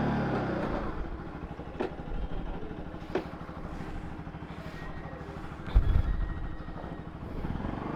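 Bajaj Pulsar NS 200's single-cylinder engine idling with an even low pulse, with a few sharp clicks and a louder dull thump about six seconds in.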